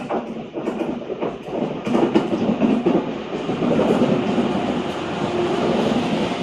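Renfe train passing on the track, its wheels clacking over rail joints in the first couple of seconds, then a steady, louder rolling noise.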